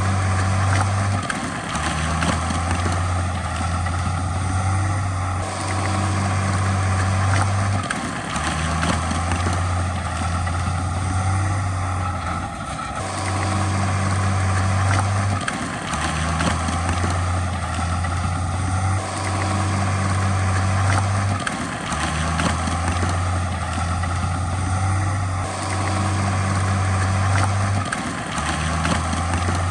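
Heavy diesel earthmoving machinery running, with a deep low drone that cuts in and out every two to three seconds.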